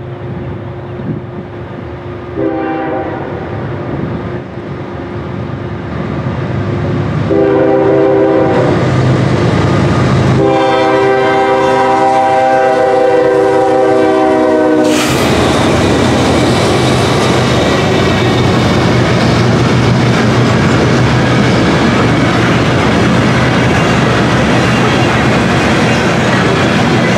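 Norfolk Southern GE ES40DC diesel locomotive sounding its multi-note horn three times as it approaches: a short blast, a longer one, then a long blast of about four seconds. As the horn stops, the lead locomotives and the loaded grain cars pass close by with a loud, steady rumble of wheels on the rails.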